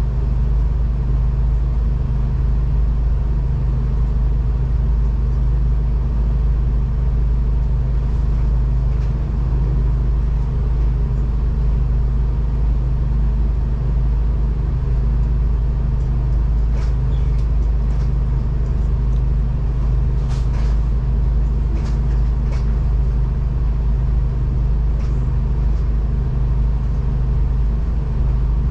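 V/Line diesel train running, a steady low rumble with an even engine hum, with a few light clicks about two-thirds of the way in.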